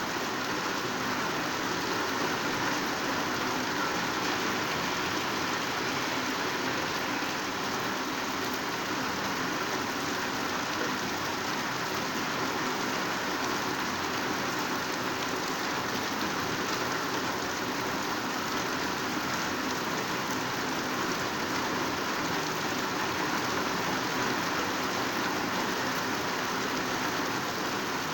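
Heavy rain falling steadily in a downpour, an even, unbroken hiss of drops.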